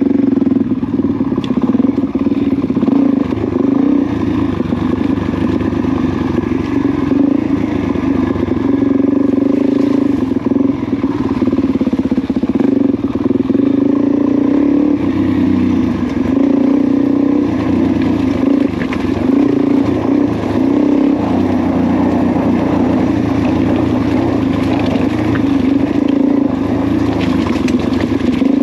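Suzuki DR-Z400's single-cylinder four-stroke engine running steadily as the dirt bike rides along a rocky trail, heard close up from on board, its note shifting a little with the throttle.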